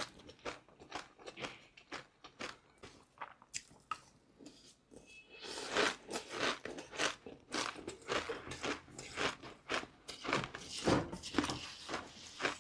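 Close-miked eating sounds: a mouth biting and chewing crunchy food in quick, irregular crunches. The crunching thins out for a couple of seconds around the middle, then comes back denser and louder.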